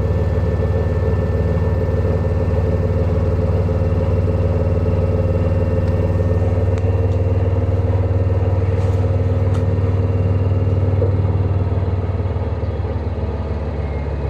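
LG direct-drive washing machine in its spin cycle: a loud, steady drone with a fine rattle, the extreme spin noise that is the machine's fault. Near the end it eases and grows quieter.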